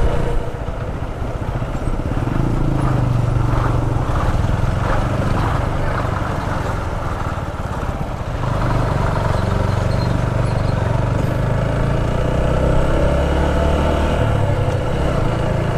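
Motorcycle engine running at road speed, with road and wind noise; it gets somewhat louder about halfway through.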